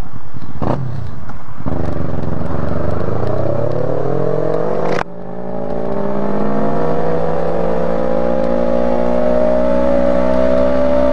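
Motorcycle engine accelerating away, its pitch rising through a gear, a brief dip at a gear change about five seconds in, then rising again through the next gear.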